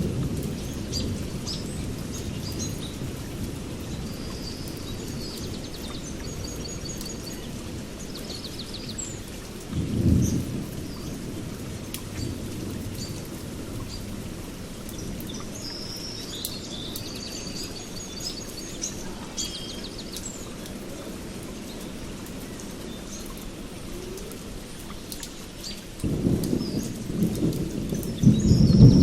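Thunder rumbling low under steady rain, with birds chirping and trilling over it. A short louder rumble comes about ten seconds in, and a longer, louder roll of thunder builds near the end.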